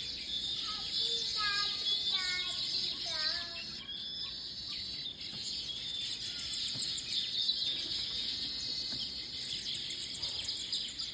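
Many baya weavers chirping and chattering together in a dense, continuous twitter, with a run of repeated sliding call notes in the first few seconds.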